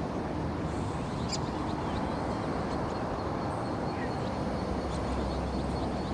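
Steady outdoor rushing noise, with a brief faint bird chirp about a second in.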